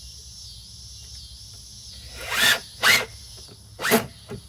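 Three short, loud rasping strokes, zipper-like, starting about two seconds in, with a smaller one near the end, over a steady high drone of insects.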